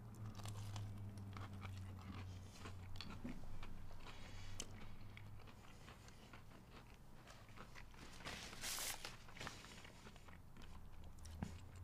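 A man biting into and chewing a breaded boneless chicken bite: faint crunching and wet chewing sounds.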